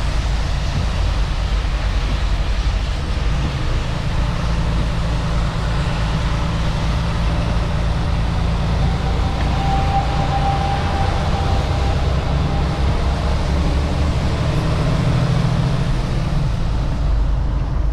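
Semi truck's engine and tyre noise heard from inside the cab while driving on a rain-wet highway: a steady low rumble under an even road hiss, with a faint whine in the middle.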